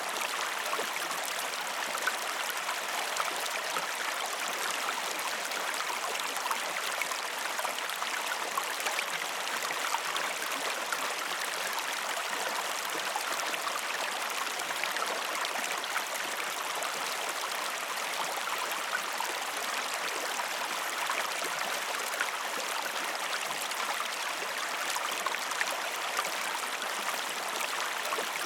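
Waterfall splashing steadily, an even rush of falling water with many small splashes.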